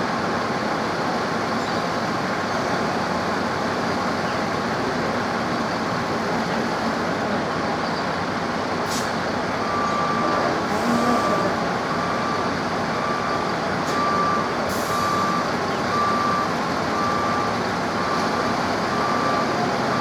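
A heavy vehicle's reversing alarm starts beeping about halfway through, one steady tone repeating roughly every 0.7 seconds, over a constant rushing background noise.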